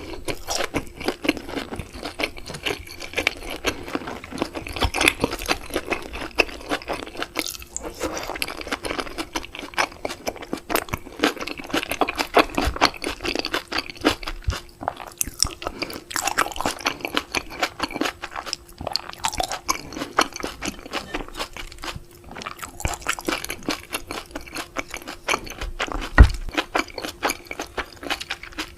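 Close-miked chewing of raw seafood: a dense run of small wet crunches, clicks and smacks. Near the end there is a single loud thump.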